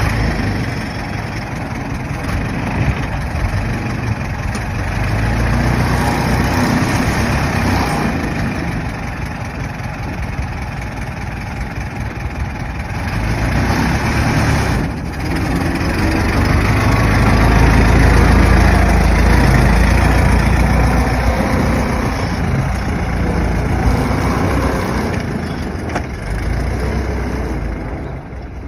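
An old car's engine running, rising in loudness twice and loudest a little past the middle, then easing off near the end.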